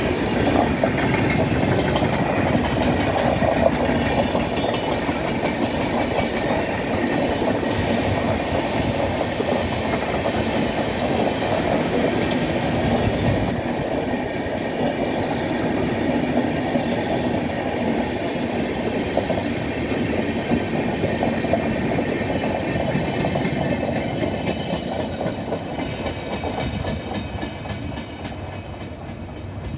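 Passenger train's coaches running past at speed: a steady rumble with wheels clattering over the rail joints, fading over the last few seconds as the end of the train draws away.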